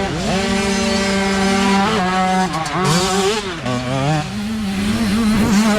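Mini dirt bike engines revving hard, more than one at once. The pitch holds steady for a couple of seconds, then falls and climbs again and again as the throttle is worked.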